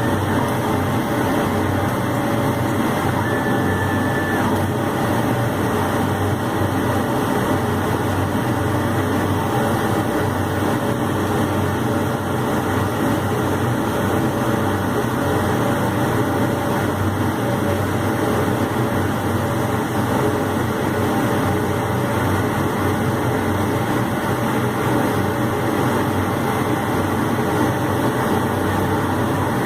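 Rizon Primalinea Laser 1310 laser cutter running while it cuts and engraves MDF: a steady mechanical hum and whir with no change in level.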